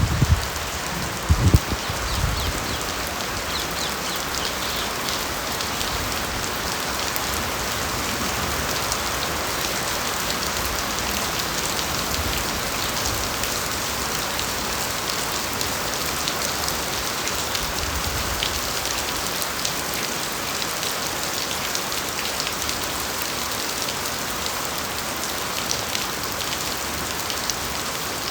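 Steady rain falling on bamboo foliage, an even hiss of drops with scattered individual patters. A couple of low thumps sound about one and a half seconds in.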